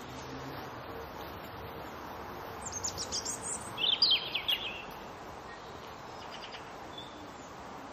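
Songbirds singing in short runs of quick high chirps, loudest about three to four and a half seconds in, over a steady background hiss of outdoor ambience.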